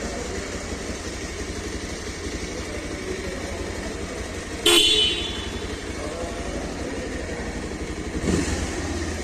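Bajaj Pulsar 180's 178.6 cc single-cylinder engine idling steadily, with a short, loud horn beep about halfway through. The engine note rises briefly near the end.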